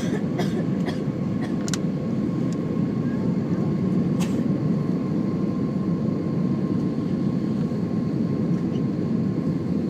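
Steady in-flight cabin noise of an airliner, engine and airflow running as a low, even roar, with a faint steady whine above it. A few light clicks come in the first two seconds and another about four seconds in.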